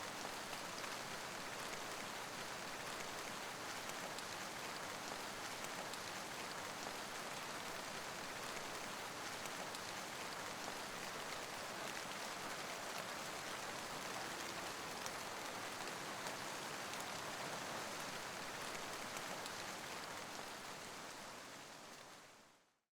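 Steady rain ambience: an even hiss of falling rain with a fine patter of drops. It fades out over the last two or three seconds.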